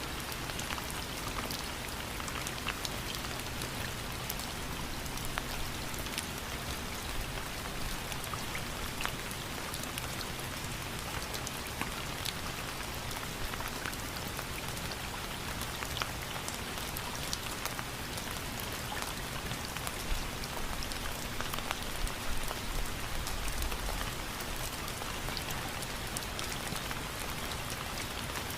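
Steady rain, with a constant hiss and many separate drops ticking and pattering on a surface.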